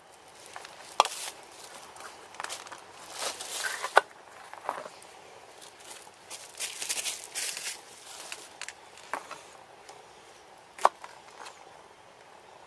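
Irregular rustling and handling noises, with a few sharp knocks: one about a second in, one about four seconds in and one near the end.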